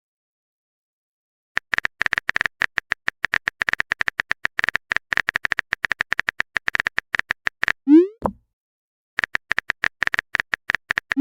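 Chat-app sound effects: after a short silence, a fast run of identical high typing clicks for about six seconds, then a short rising bloop as a message pops up. A second, shorter run of typing clicks follows, ending in another bloop.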